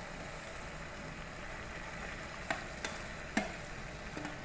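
Fried cauliflower and potato pieces sizzling in hot oil and masala in a pan. A few short, sharp clicks against the pan come in the second half.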